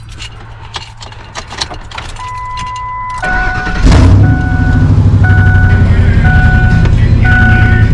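Ford F250 pickup started: a dashboard chime beeps about once a second, the starter cranks briefly and the engine catches about four seconds in and settles into a steady idle. The exhaust runs quiet, its Y-pipe joint freshly bolted back up.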